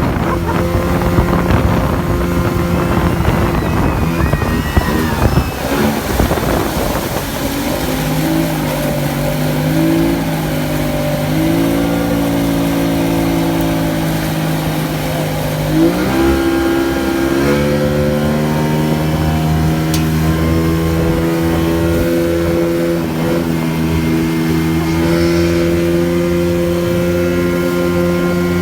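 Motorboat engine running at speed, its note shifting up and down several times as the throttle changes. Rushing wind and water noise dominate the first few seconds.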